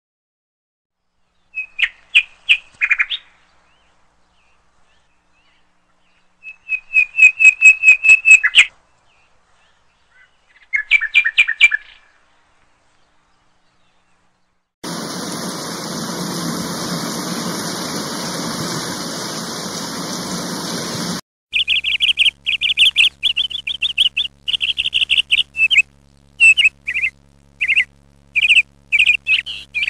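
Bird-like chirps and trills in short bursts, each group about a second or two long, with dead silence between them. A steady hiss takes over for about six seconds, then quicker bursts of high chirping follow over a faint low hum.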